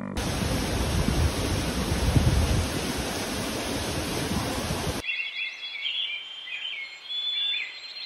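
A steady rushing noise with gusty low rumbling for about five seconds, cut off abruptly and followed by birds chirping in short, high calls.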